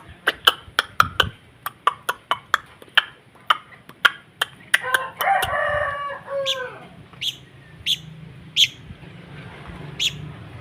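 Long-tailed shrike giving a quick run of sharp clicking notes, about two a second. About five seconds in comes a two-second crow like a rooster's, then the clicks go on more sparsely.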